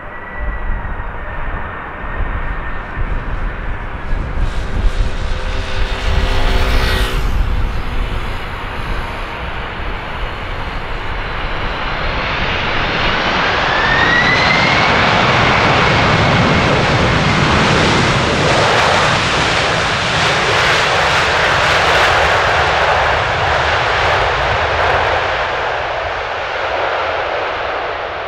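Jet airliner passing close by: engine noise builds with a whine gliding upward, then swells into a loud, wide roar through the second half and slowly eases off near the end. Low wind rumble on the microphone in the first seconds.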